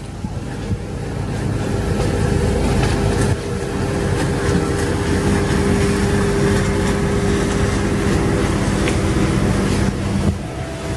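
Express passenger riverboat's engines running with a steady, loud hum as the boat comes in to dock. The sound grows louder over the first two seconds and drops a little just after ten seconds.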